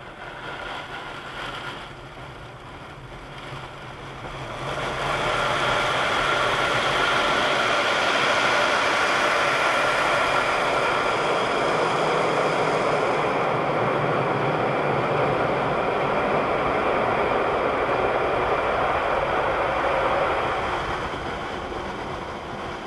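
Conveyor automatic car wash machinery working over a car: a loud, steady rush of spraying and mechanical noise that swells about five seconds in and eases off near the end.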